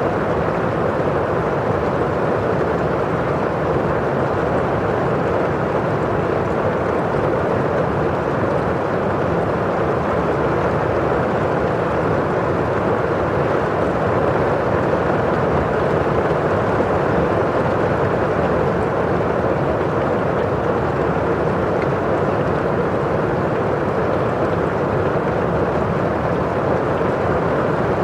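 Steady rain falling on window glass and outside, a constant, even rushing noise with most of its weight low and little hiss at the top.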